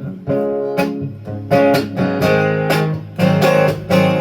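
Acoustic guitar strumming chords in a steady rhythm, about two to three strums a second, in an instrumental break with no singing.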